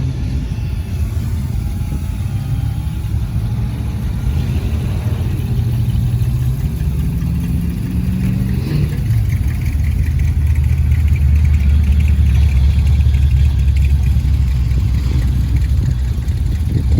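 Car engine running, rising in pitch partway through as it accelerates, then a louder steady low drone in the second half.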